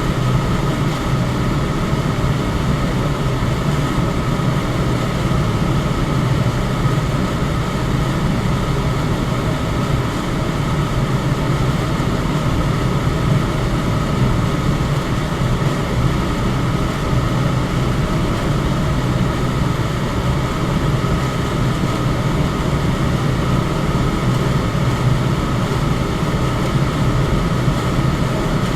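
Electric fan running steadily: a constant whoosh of air, strongest in a low hum, with a faint steady whine from the motor.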